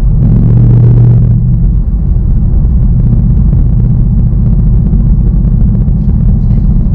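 Ford Mustang Bullitt's 5.0-litre V8 engine and exhaust running steadily as the car drives, a low drone that swells a little for about a second near the start.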